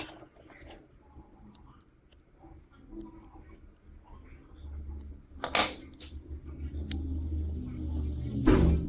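Scattered clicks and a few louder clattering knocks of small hard parts being handled, with a low hum coming in about halfway through.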